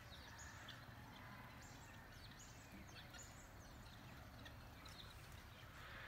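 Near silence, with faint, scattered short high chirps of small birds.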